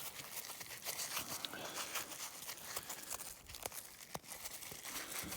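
Dried sunflower heads crackling and crunching as they are handled, a dense run of small sharp snaps.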